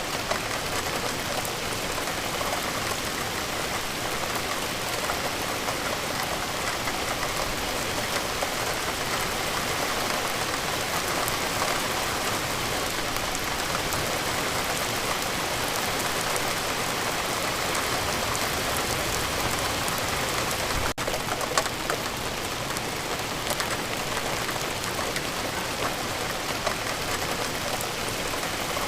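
Steady, heavy rain falling, an even hiss of countless drops without a break except for a momentary dropout about two-thirds of the way through.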